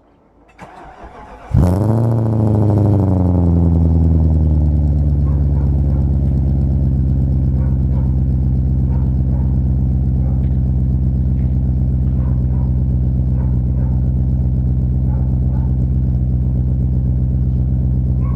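BMW E39 540i's 4.4-litre V8, straight-piped, cold-starting: the starter cranks for about a second, the engine catches with a loud flare of revs that quickly falls away, then it settles into a steady cold idle.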